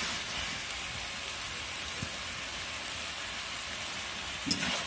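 Chicken and potato curry sizzling steadily in oil in a kadai while a spatula stirs it, the masala being fried down without added water (kosha). A brief knock near the end.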